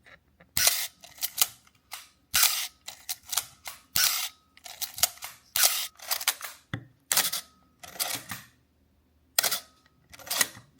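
Canon AE-1 35mm SLR being worked over and over: the shutter and mirror fire, and the film advance lever is wound between shots, making repeated sharp mechanical clicks and clacks about once a second, with a short pause near the end.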